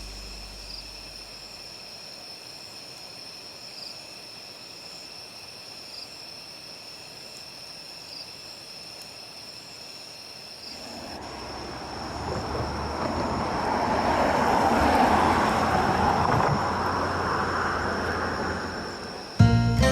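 Steady high-pitched insect trilling in the background. About halfway through, a vehicle passes: a rumbling noise swells to a peak, then slowly fades.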